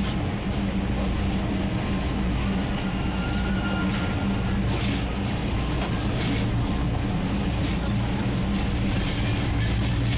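Train running slowly, a steady low engine drone with scattered clicks and brief high squeaks over it.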